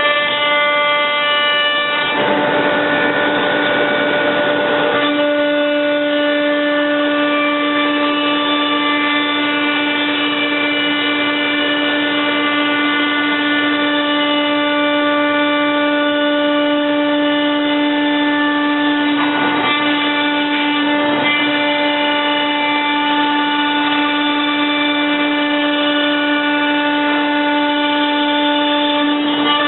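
CNC router spindle running with a steady high whine, joined by harsher, noisier stretches about two seconds in (lasting about three seconds) and again around twenty seconds in.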